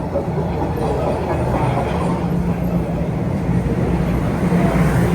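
Low, steady rumble of a road vehicle passing close by on a city street, growing a little louder.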